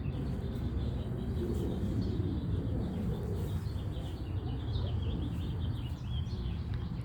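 Small birds chirping over a steady low background rumble.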